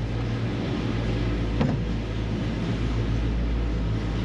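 Heavy construction machinery engine running at a steady pace, with a single sharp knock about one and a half seconds in.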